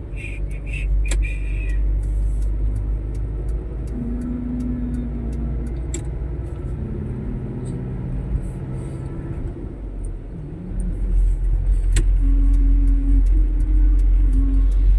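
Motor vehicle running, a steady low rumble of engine and road that grows louder about eleven seconds in, with a few short steady humming tones over it.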